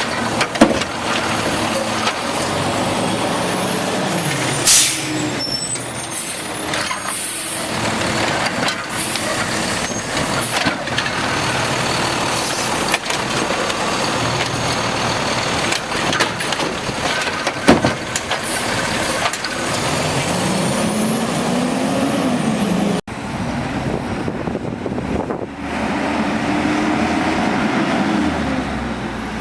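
Automated side-load garbage truck at work: the diesel engine revs up and falls back several times as the hydraulic lifting arm cycles, with a few sharp bangs and a short hiss of the air brakes.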